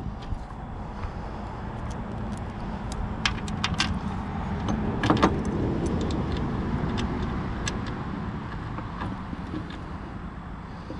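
Small metal hardware clinking: bolts, washers and a wrench on a finish mower's bearing housing as new bearings are bolted on, a scatter of sharp clicks. Under it a low rumble swells to its loudest about five seconds in and fades away.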